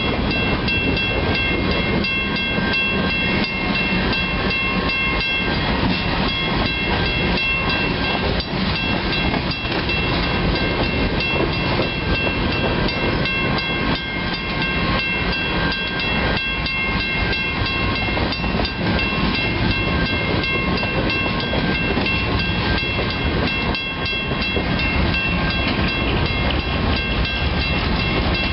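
Freight cars of a CN grain train rolling steadily past a crossing: continuous rumble of steel wheels on rail with fine clicking, and steady high-pitched tones held over it.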